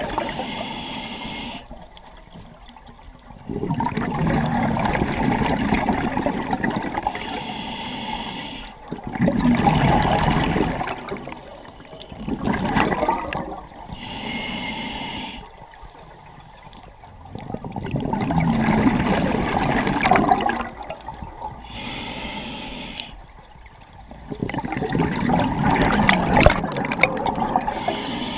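Scuba diver breathing through a regulator: a short hissing inhale, then a longer loud rush of exhaust bubbles, repeating about every six to seven seconds.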